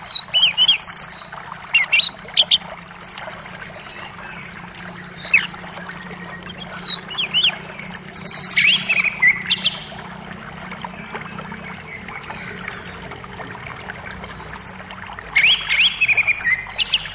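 Wild songbirds calling over a running forest creek: short high notes repeat every couple of seconds among quick falling chirps, with a rapid trill about eight seconds in and again near the end. Under the birds runs the steady hiss of flowing water.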